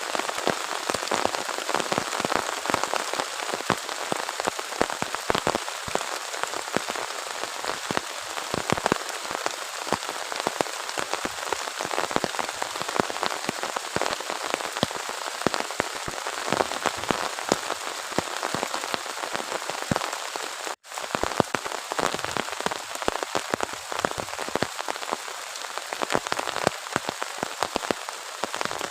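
Heavy rain falling steadily, with many sharp close drop hits on a surface. The sound cuts out for a split second about two-thirds of the way through.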